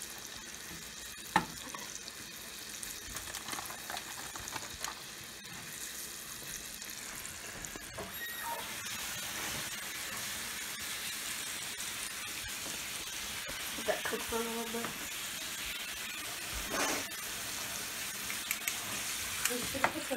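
Floured pieces of raccoon meat sizzling as they fry in a skillet, a steady crackling hiss. Metal tongs click against the pan now and then, sharply about a second in.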